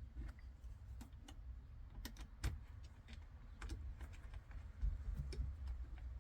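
Irregular light clicks and taps of small parts and hand tools being handled while the earthing strap and its bolt are fitted to the steering wheel, over a low rumble.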